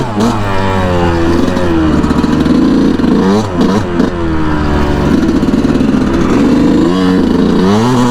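A 2019 Yamaha YZ125's 125 cc single-cylinder two-stroke engine under way, revving up and dropping back several times as the throttle is worked.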